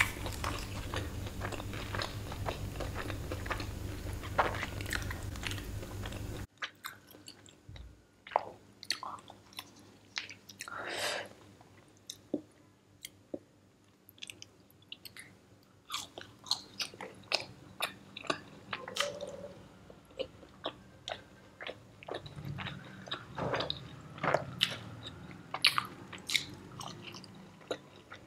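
Close-up biting and chewing of Burger King chicken fries: wet mouth clicks and smacks at an irregular pace. The fries have gone slightly moist, so they are not fully crunchy. A steady background hum cuts off abruptly about six seconds in.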